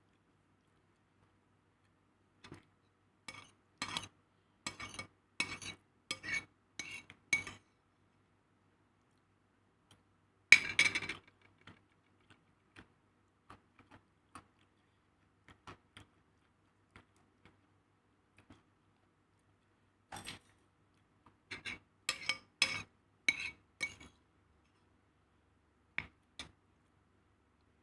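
Cutlery clinking and scraping against a plate during a meal: runs of short clinks, about two a second, with one louder clatter about ten seconds in.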